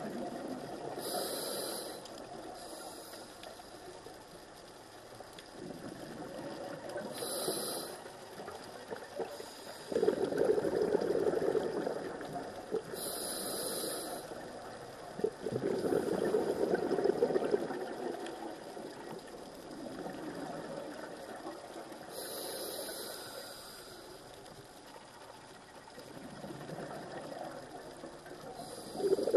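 Scuba diver breathing through a regulator underwater: a short hissing inhale every six seconds or so, each followed a few seconds later by a longer, louder bubbling exhale.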